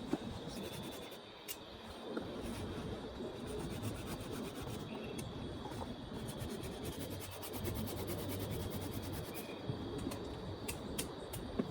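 Continuous rubbing and scraping on wood, made up of many quick strokes, with a steady thin high tone behind it.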